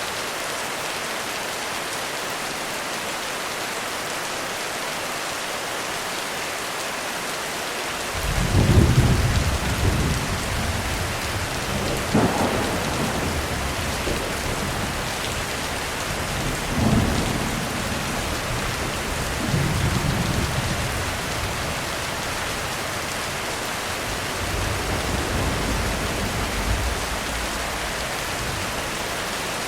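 Heavy rain falling in a steady hiss. About eight seconds in, thunder breaks with a loud rumble, and further rolls of thunder follow every few seconds, the last spread out near the end.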